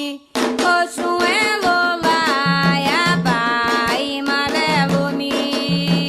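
Candomblé Ketu song for Xangô: voices singing with gliding pitches over hand drums and percussion. A held note breaks off right at the start, and the new phrase with the drums comes in about a third of a second later.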